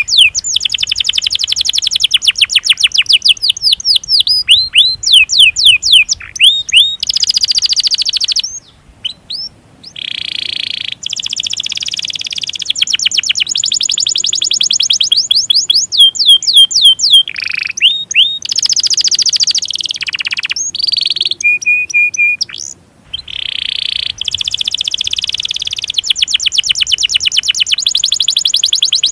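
Domestic canary singing long rolling trills: fast runs of repeated downward-sweeping chirps, with a short steady whistle in one phrase. The song breaks off briefly twice.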